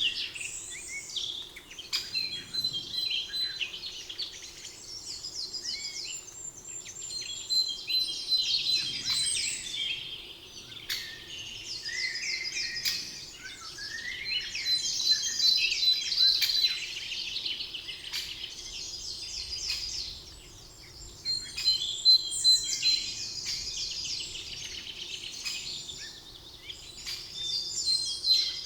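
Several songbirds singing at once, with rapid trilling phrases that overlap and come in waves every few seconds, and a brief lull about two-thirds of the way in. A faint steady background hum lies underneath.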